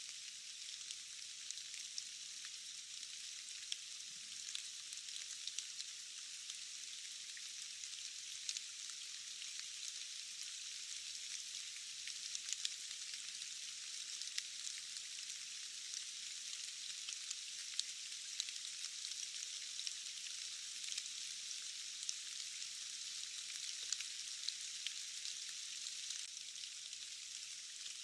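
Steady rain falling: an even high hiss with many small drop ticks scattered through it.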